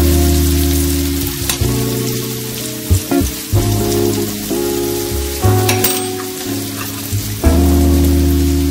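Onions and spices frying in oil in a nonstick pan, a steady sizzle, under background music of slow, sustained low notes that change every second or two. A few light clicks of a metal spoon against the pan come through.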